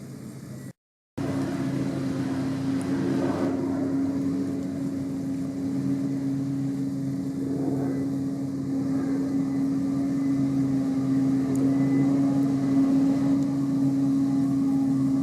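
Heavy farm machinery running steadily: an engine drone with a strong held hum that grows slowly louder. A brief dropout about a second in leaves it louder than before.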